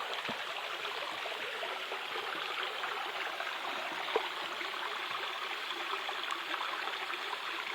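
Steady light rain falling, a continuous hiss dotted with faint ticks of drops, with one small click about four seconds in.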